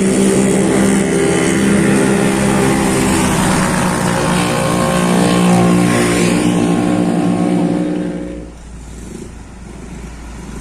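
Heavy diesel truck engine running loud and close at steady revs as the truck passes, then falling away about eight and a half seconds in, leaving a lower traffic rumble.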